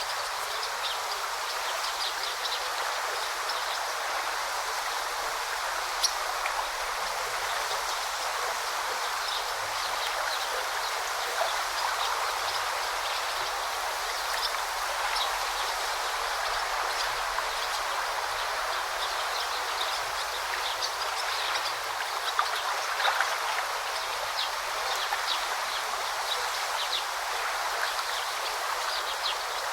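A forest river or brook flowing steadily, with small birds giving short, high chirps scattered throughout.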